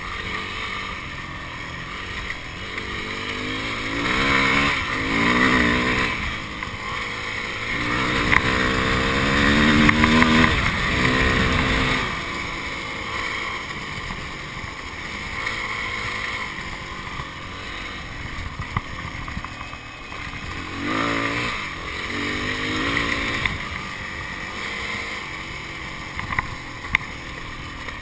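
Yamaha trail motorcycle engine running under the rider on a gravel track. It revs up and climbs in pitch several times as the bike accelerates, strongest about ten seconds in, then drops back between pulls.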